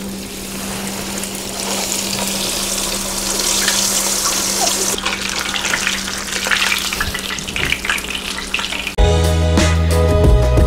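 Battered rockfish fillet deep-frying in very hot oil in a cast-iron skillet: a steady sizzle with crackles and pops. Background music comes back in suddenly near the end.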